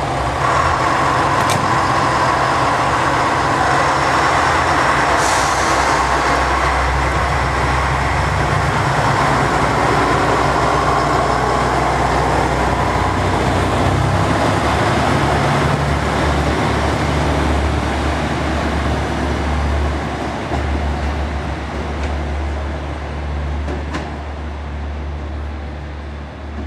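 JR Shikoku 2000 series tilting diesel multiple unit running at speed, heard from inside the car: a steady low diesel engine drone under wheel and rail noise, with a few sharp clicks. The noise eases off over the last several seconds as the train slows.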